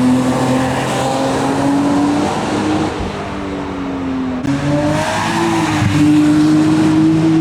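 Racing car engine under hard acceleration, its pitch climbing and dropping back several times as it shifts up through the gears.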